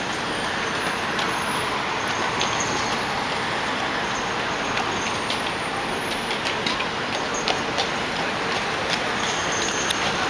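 Steady city street traffic noise, with scattered short sharp clicks and knocks throughout.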